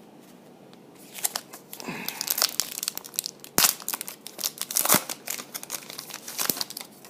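Foil trading-card pack wrapper being torn open and crinkled by hand, starting about a second in, with two sharp louder crackles near the middle.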